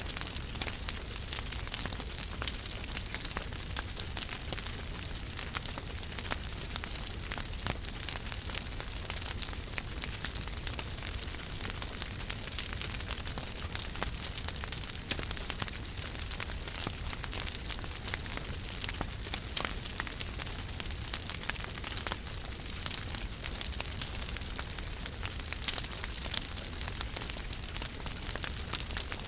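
Wood fire burning in a fireplace: a steady hiss with constant small crackles and a few sharper pops.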